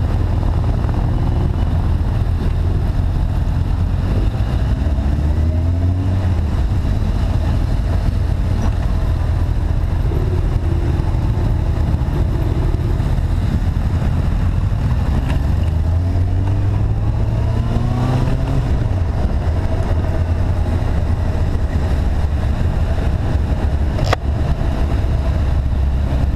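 Vehicle engine on a ride, heard from an onboard action camera under heavy low wind rumble; its pitch climbs as it accelerates about four seconds in and again around fifteen seconds in. A sharp click comes near the end.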